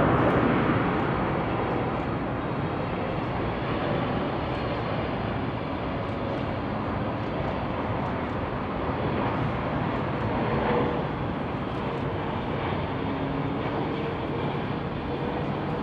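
Jet noise from a Boeing 777-300ER's two GE90 turbofan engines as the airliner arrives to land: a steady rushing sound with a faint hum in it, loudest at the start and then even.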